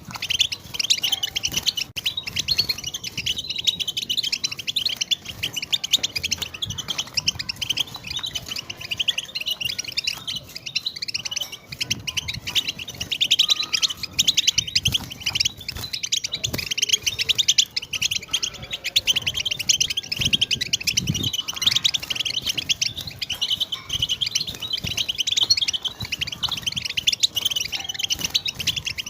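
A flock of European goldfinches singing together: many high, rapid twittering phrases overlapping without a break.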